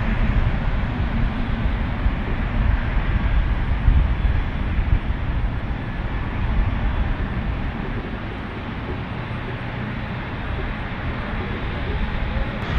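Airliner engine noise, a steady rush with a heavy low rumble.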